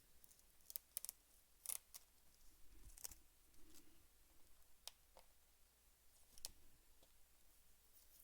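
Faint, scattered crackles and ticks of clear invisible tape being peeled off watercolor paper, coming at irregular moments a second or so apart.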